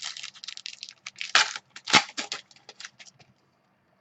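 Trading card pack wrapper crinkling and tearing as a pack is opened and the cards handled. Two louder knocks come about a second and a half and two seconds in, and the sound stops a little after three seconds.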